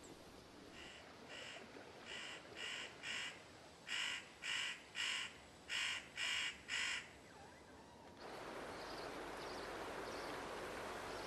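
A bird giving a series of about eleven short, crow-like calls in runs of two or three, roughly two calls a second. At about eight seconds the sound cuts to the steady rush of a flowing river.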